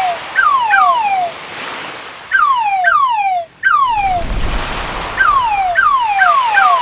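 Synthetic crab sound effect: short whistle-like chirps, each sliding down in pitch over about a third of a second, repeated every half second or so and often in pairs. Under them runs the hiss of waves breaking on a shore, swelling with a low rumble around the middle.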